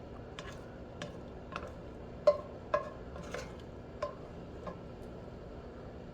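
A utensil stirring food in a skillet and clinking against the pan: about eight light knocks with a short ring, the two loudest a little over two seconds in.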